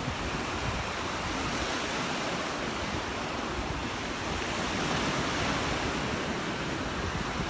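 Surf washing onto the beach: a steady hiss of breaking waves that swells a little about five seconds in, with some wind rumbling on the microphone.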